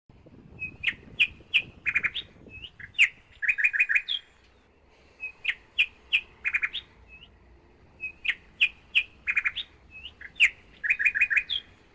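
A bird singing in three phrases of quick, sharp chirps, each phrase a few seconds long, with short pauses between.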